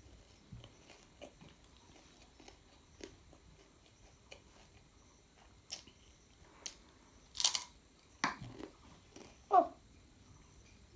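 A child chewing and biting a fried goldfinger snack close to the microphone: soft chewing with small mouth clicks, and a few sharper, louder bites in the second half, the loudest about seven and a half seconds in. A brief pitched sound comes about nine and a half seconds in.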